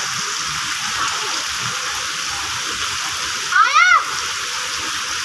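Steady rain falling, heard as an even hiss, with a brief high call about three and a half seconds in that rises and then falls in pitch.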